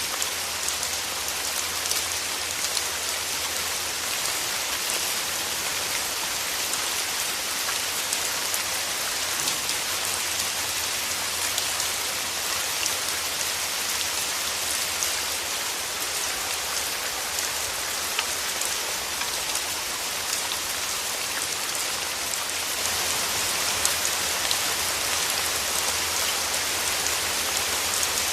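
Steady rain falling, a dense even hiss speckled with many fine drop patters, growing a little heavier near the end.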